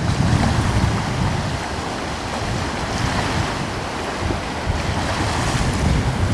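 Ocean waves washing gently and continuously at the shore, with a coastal breeze buffeting the microphone as a low, gusty rumble.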